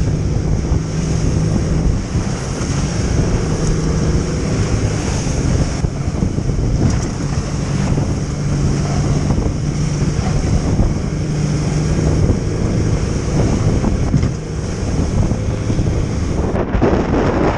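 Strong wind buffeting the microphone, with a steady low hum running beneath it.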